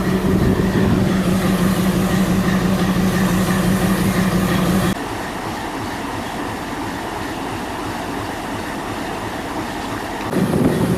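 Train: a steady engine hum for the first half, which cuts off abruptly about halfway to a quieter, even rumble, then returns near the end.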